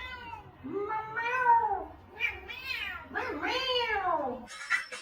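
A cat meowing repeatedly: about four drawn-out meows, each rising then falling in pitch, that stop abruptly near the end.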